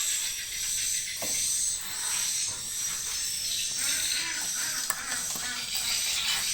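Dense, steady high-pitched chirping and twittering of many swiftlets.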